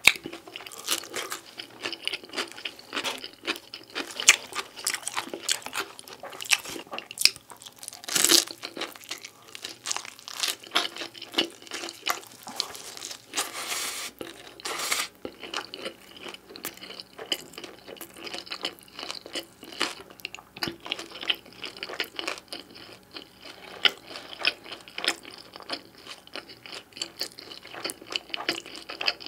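Close-miked chewing of beef pizza, with crunching crust and a steady stream of small wet mouth clicks. A louder crunch comes about eight seconds in.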